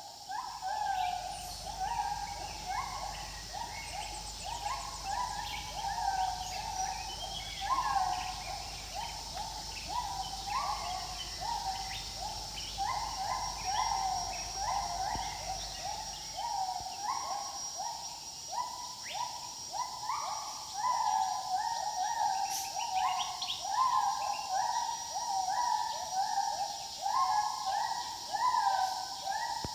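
Gibbons calling: a chorus of loud whooping notes, each sweeping up in pitch, repeated about twice a second by several overlapping voices. A steady high buzz runs behind them.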